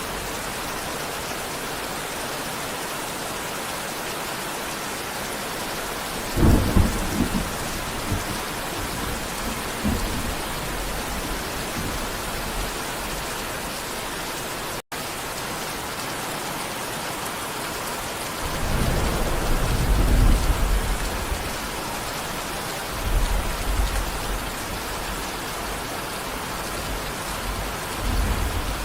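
Steady heavy rain, with rolls of thunder rumbling low several times: a short sharp one about six seconds in, a longer one building about two-thirds of the way through, and smaller ones after it. The sound drops out for an instant about halfway.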